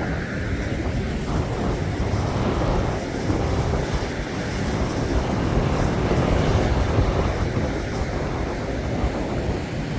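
Waves of the winter sea breaking and rushing on the shore, with wind buffeting the microphone; the rush swells for a few seconds in the middle and then eases.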